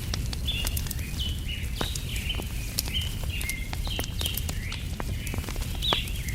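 Birds chirping in a continuous run of short, quick notes, over the scattered sharp pops and crackles of a wood fire and a steady low rumble.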